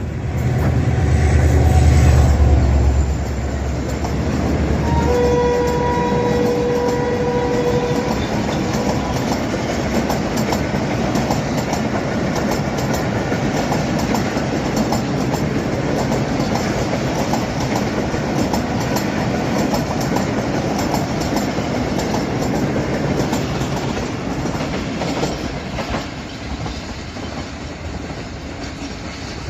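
A Pakistan Railways SGMU-30 diesel locomotive passes at speed with a non-stop train. Its heavy engine rumble is loudest in the first three seconds. A steady tone sounds for about three seconds around five seconds in, then the coaches go by with a steady clickety-clack that fades near the end.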